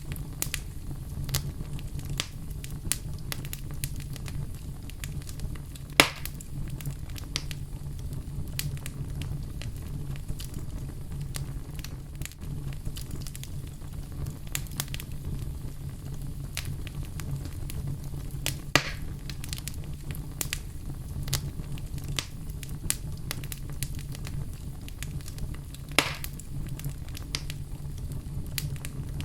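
Fire burning in a fireplace: constant small crackles over a steady low rumble, with three sharper pops spread through it.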